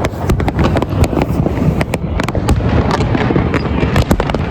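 Fireworks display: a dense, irregular run of sharp bangs and crackles over a continuous low rumble.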